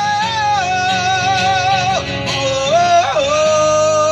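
Live rock ballad on guitar, with a male singer holding long notes with vibrato, dropping a step about two seconds in and sliding up to a new held note about three seconds in.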